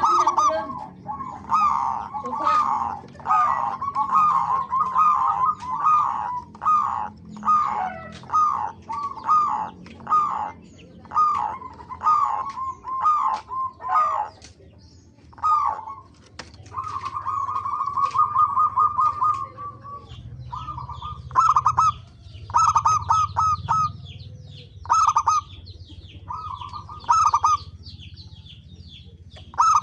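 Zebra doves (perkutut) cooing: a long run of short, rapid rolling coos, one after another, with one longer unbroken trill about two thirds of the way through. Faint high chirps from smaller birds sound behind them in the second half.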